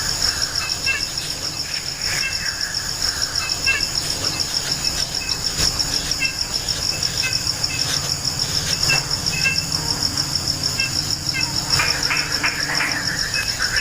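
Insect trilling: a steady, high-pitched, rapidly pulsing trill, with short faint chirps scattered through it.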